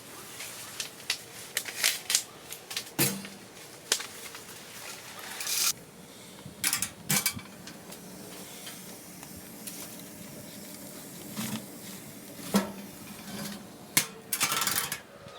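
Cookware and utensils being handled: an irregular string of clinks, knocks and short scrapes, with a few sharper knocks.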